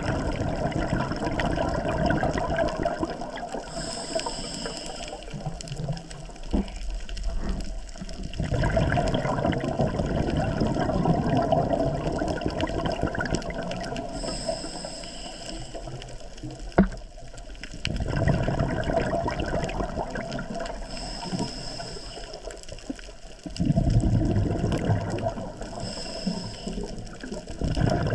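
A scuba diver's exhaled bubbles rumbling out of the regulator underwater, in four long bursts a few seconds apart, with a thin high hiss from the regulator as the diver breathes in between bursts.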